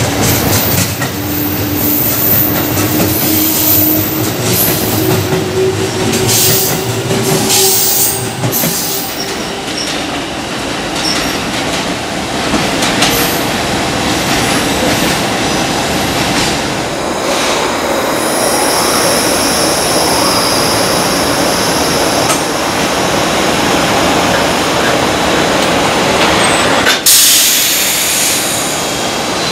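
An electric commuter train pulling away, its motor whine rising in pitch over the first several seconds. Then a long container freight train rolls through on steel wheels, with high-pitched wheel squeal around the middle. Near the end the sound changes suddenly to a freight train hauled by an electric locomotive pulling out.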